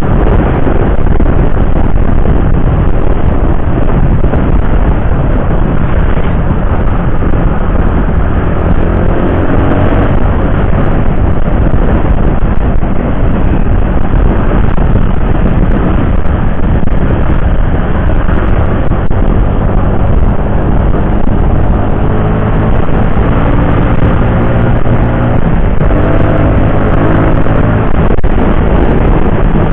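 Loud, steady wind and road noise from a motorcycle ride, with an engine drone underneath. The engine's pitch rises and falls around ten seconds in and again near the end.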